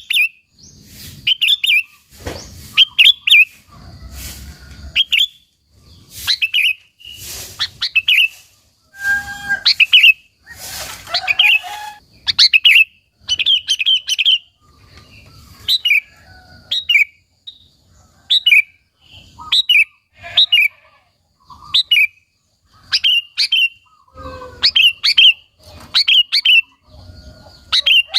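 Sooty-headed bulbul (kutilang) singing vigorously, giving short chirping phrases about once a second.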